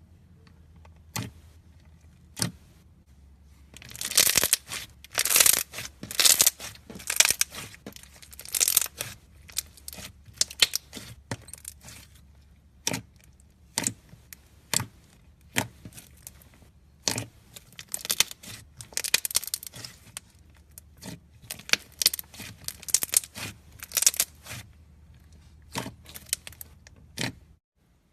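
Foam-bead slime (slime filled with polystyrene beads) being squeezed and pressed by hand, giving irregular runs of crunchy crackling. A few single clicks come first, and the crackling starts about four seconds in.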